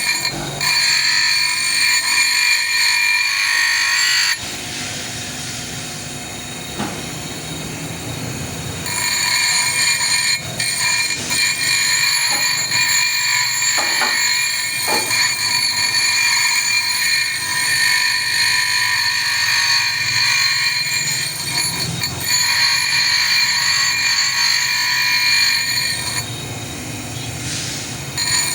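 A power tool running with a steady high whine. It eases off twice, a few seconds in and near the end, then comes back. A few short knocks fall in the middle.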